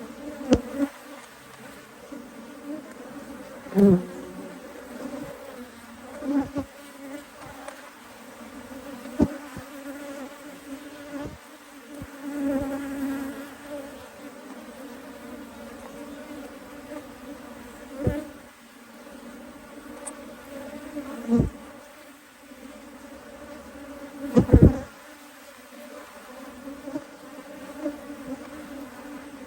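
Honeybees of an open hive buzzing in a steady droning hum. A few sharp bumps cut in now and then, the loudest about three-quarters of the way through.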